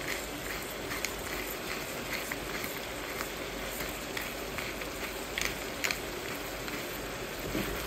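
Ground beef, onion, peppers and tomatoes sizzling steadily in a frying pan, with scattered sharp crackles and clicks while salt and black pepper are shaken over the food.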